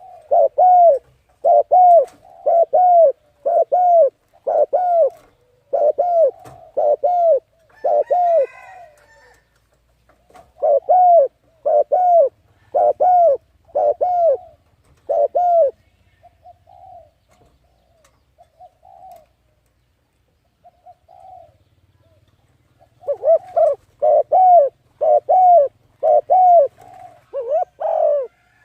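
A bird calling in runs of short, hooting notes, repeated at more than one a second. The run pauses about halfway, with a few fainter notes, then starts again loudly near the end.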